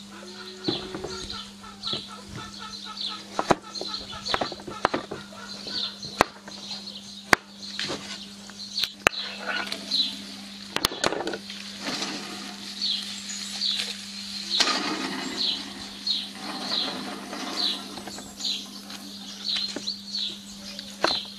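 A small bird chirps repeatedly, a short high note about once or twice a second, over scattered sharp knocks of a kitchen knife on a wooden cutting board and a steady low hum.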